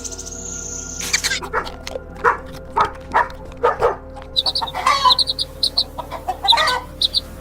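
Chickens clucking: short calls repeated about two a second, with short high chirps in among them in the second half.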